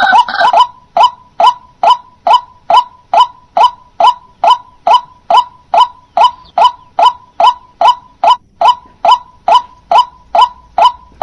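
White-breasted waterhen (dahuk) calling one short, honking note over and over at an even pace, about two calls a second.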